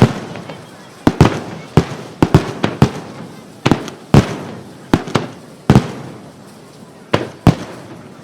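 Aerial firework shells of a wide starmine bursting in rapid succession: about fifteen sharp bangs at irregular intervals of half a second to a second, each trailing off in a rolling echo.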